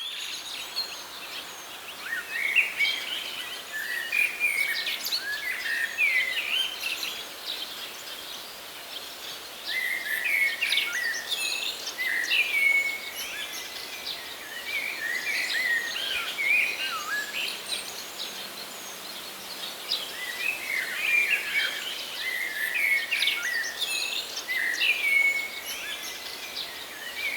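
Several songbirds chirping and trilling over the steady hiss of a flowing stream. The birdsong comes in busy spells with quieter lulls between them.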